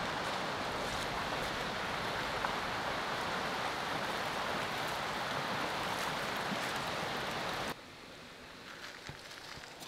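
Creek water rushing steadily over a small runoff, cutting off suddenly about three-quarters of the way through to a much fainter water sound.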